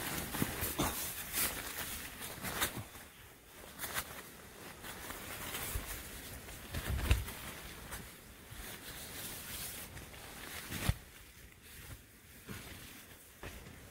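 Irregular rustling, clicks and knocks of movement close to the microphone, with a louder low thump about seven seconds in and a sharp knock near eleven seconds.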